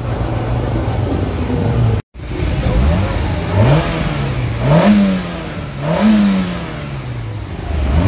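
Rally car engine running steadily, then revving: from about three seconds in, the pitch climbs, drops back and climbs again a few times before falling away. There is a brief dropout about two seconds in.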